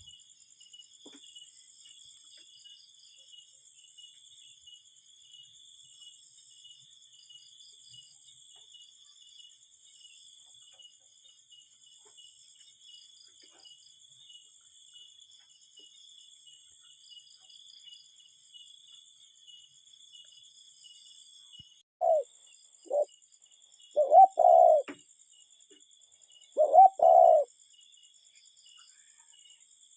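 Cuckoo calling: from about two-thirds of the way in, a series of loud, low hooting calls, mostly paired notes, repeated several times. Underneath runs a steady high-pitched trilling chorus.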